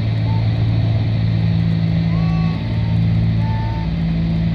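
Cessna 310's twin six-cylinder piston engines and propellers droning steadily at cruise power, heard inside the cabin.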